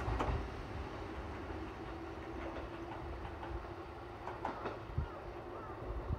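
Kotoden Nagao line electric train running at a station, with a steady hum and a few sharp clicks from the wheels on the rails.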